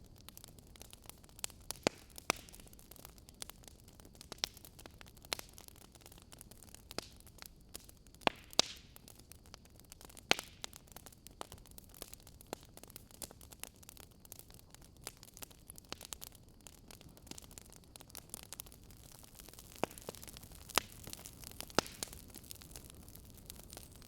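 Wood fire crackling with irregular sharp pops over a low steady hiss; a few pops stand out louder, about eight to ten seconds in and again towards the end.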